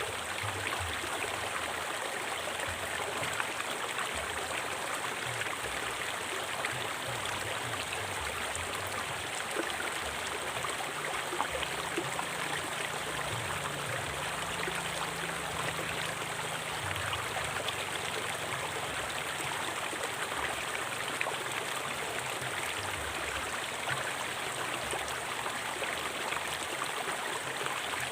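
River water flowing steadily: a constant rushing and gurgling with no breaks.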